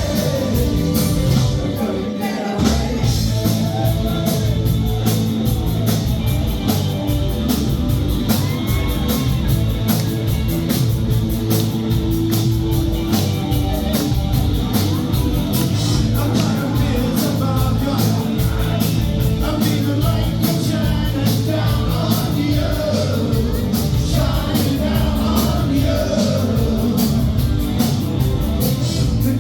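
Live new wave band performance: male lead vocals over synthesizer, guitar and a steady driving drum beat, picked up from the audience in a large hall.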